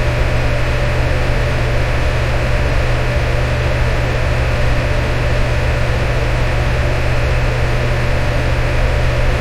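Electric fan running steadily: a constant airy whoosh over a strong low hum, with a faint steady tone in the middle.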